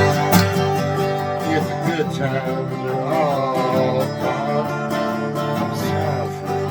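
12-string acoustic guitar strumming folk chords, with a voice singing a phrase of the melody about halfway through and again near the end.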